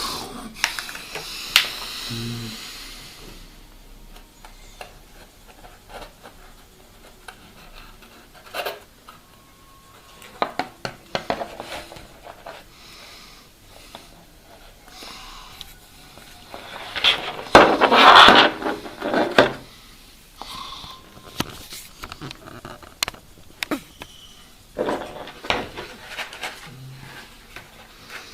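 Objects being handled: scattered clicks and knocks, with a louder rustling or scraping stretch lasting about two seconds past the middle.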